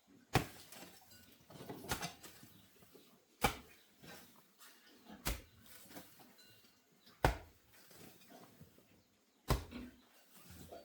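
Hand tool striking hard again and again, six sharp knocks about every two seconds, each followed by a short scraping tail.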